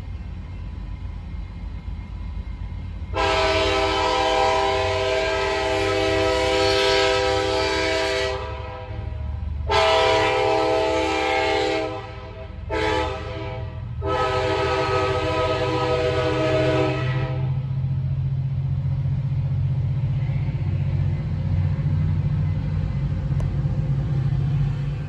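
Trinity Railway Express commuter train sounding its multi-note horn in the grade-crossing pattern: two long blasts, a short one and a final long one. A low rumble of the approaching train runs underneath and swells toward the end.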